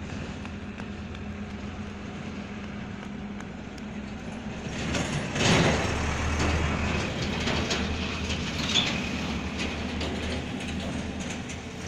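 Train running on the tracks below: a steady low hum and rumble that swells about halfway through, with scattered clicks.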